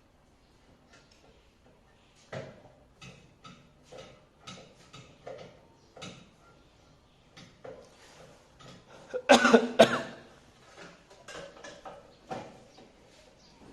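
Irregular light clicks and knocks of parts and tools being handled while an air-conditioner indoor unit is installed, with a much louder double burst about two-thirds of the way through.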